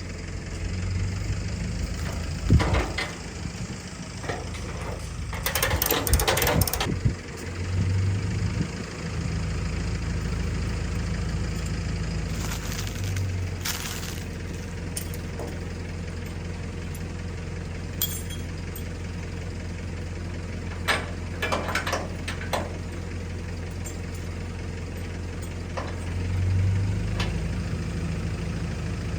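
A vehicle engine idling with a steady low hum, with a few short knocks and rattles over it.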